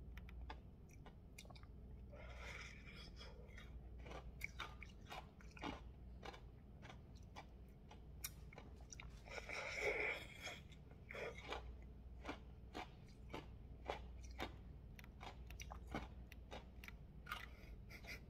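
Close-up chewing and crunching of icy slush from a peach-flavoured Polar Pole slush ice tube: many small crunches, with two longer, louder stretches about two and a half and ten seconds in.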